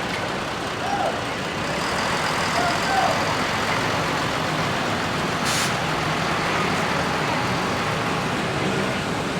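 Scania K94 bus's 310-horsepower diesel engine running steadily while the bus manoeuvres. A short hiss of compressed air from the air brakes comes about five and a half seconds in.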